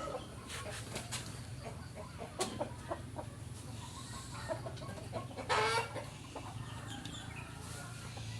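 Fowl clucking in short scattered calls, with one louder, longer call a little past halfway, over a steady low hum.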